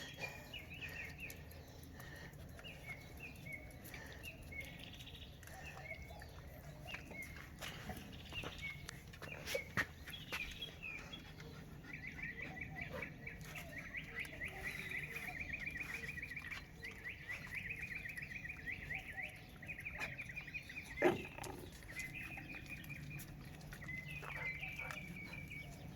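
Birds chirping, with a long run of fast repeated chirps in the middle. Scattered clicks and a sharp knock a little after twenty seconds in.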